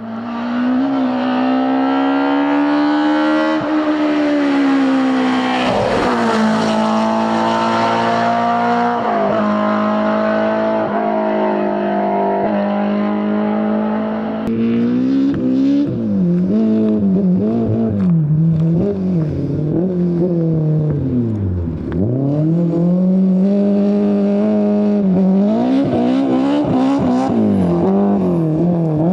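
BMW M3 E30 Group A rally car's four-cylinder engine running hard at high revs, held fairly steady at first, then revs rising and falling quickly through gear changes and lifts, with a deep drop in revs a little over halfway through.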